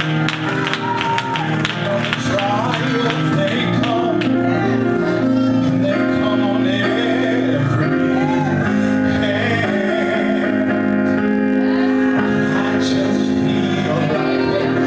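Worship music: singers over a band of sustained instrument chords, with sharp drum-like strikes in the first few seconds.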